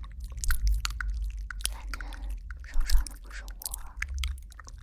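Close-miked ASMR sounds: a dense run of crisp clicks and crackles with low bumps of handling on the microphone.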